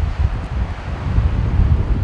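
Wind buffeting the microphone: a loud, gusting low rumble with a fainter hiss of wind above it.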